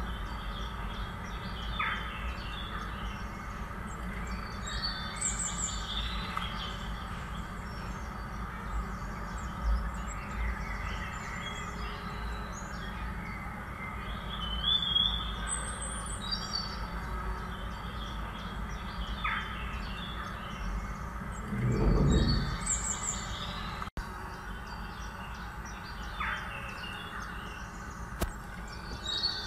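Birds chirping and calling, short high trills and whistles coming every few seconds over a steady low background noise. A brief low rumble comes about 22 seconds in.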